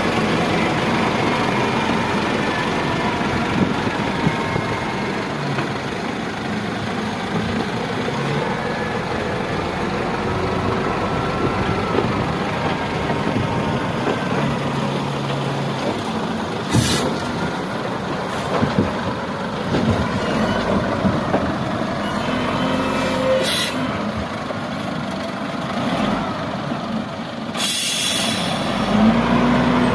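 Heavy construction machinery, a loader and dump truck, running steadily, with three short hissing bursts in the second half.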